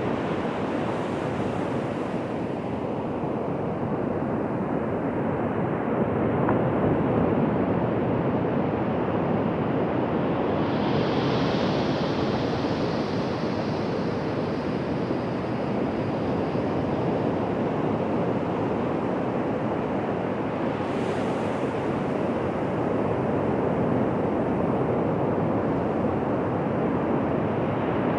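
Ocean surf on a beach: a continuous wash of breaking waves, with a higher hiss that comes in about a third of the way through and fades a few seconds later.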